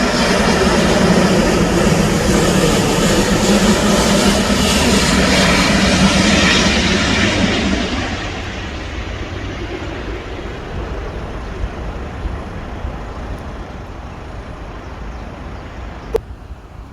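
Jet airliner passing close by, its engines loud for about eight seconds and then fading away into a lower rumble as it moves off.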